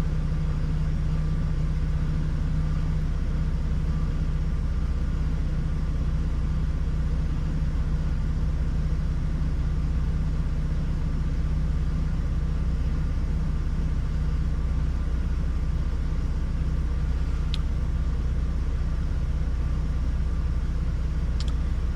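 2006 Hummer H3's 3.5-litre inline-five engine idling steadily while still warming up from a cold start, its fuel trims just gone into closed loop.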